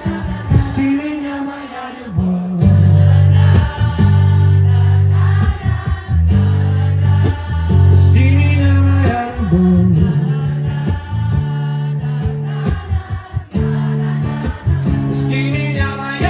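Live band music with a heavy, steady bass line and percussive strikes, under a wordless sung melody that glides between notes.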